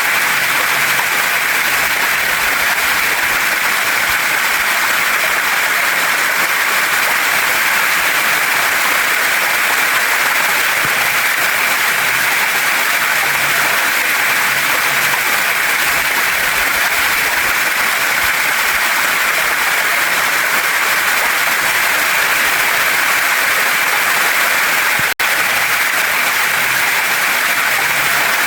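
Waterfall and stream water rushing, a steady, dense hiss. It drops out for an instant near the end.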